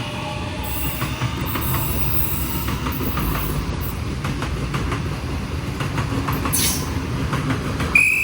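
Waratah A-set electric train pulling out of the station: a steady rumble of wheels on rails with scattered clicks over the rail joints and a high wheel squeal. A short high tone sounds near the end.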